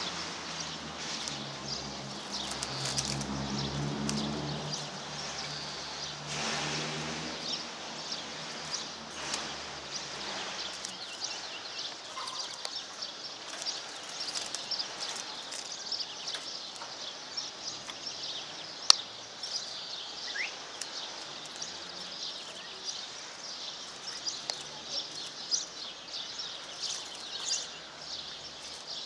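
Serin × canary hybrid finch singing a long, rapid, high twittering song of chirps and trills. A low engine rumble passes under the song in the first several seconds, and there is one sharp click about two-thirds of the way through.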